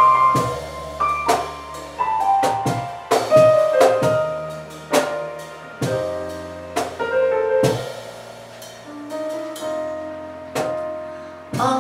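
Instrumental break in a pop ballad: piano playing chords and a melody of struck notes that ring and fade, over low bass notes, with no singing.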